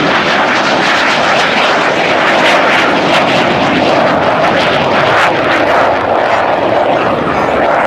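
Military jet aircraft flying past at an air display: a loud, steady jet engine noise with no break.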